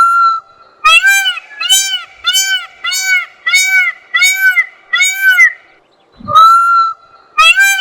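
An animal's loud honking call: one long rising note, then a run of about eight short arched notes, roughly two a second, with the whole sequence starting over about six seconds in.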